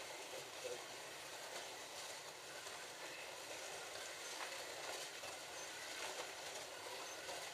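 Several Scalextric slot cars lapping a plastic track: a steady whirring hiss from their small electric motors and the guide pickups running in the slots, with a few faint clicks.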